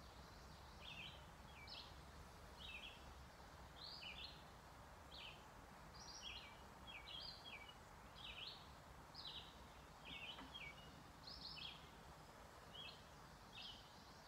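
Songbirds chirping faintly and steadily, short high falling notes about one or two a second, over a quiet outdoor background hiss.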